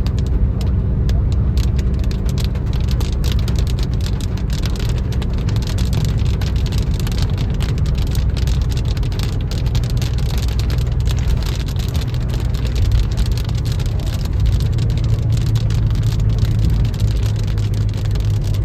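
Inside a car driving through heavy rain: a steady low road and engine drone, with rain striking the car in dense, fine ticks.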